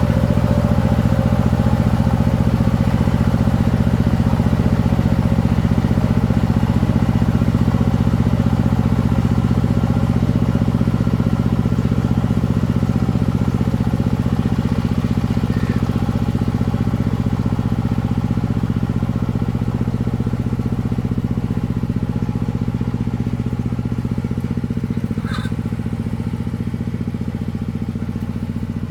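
Engine of a công nông farm vehicle running steadily, with a slight change in its note and a short click about 25 seconds in.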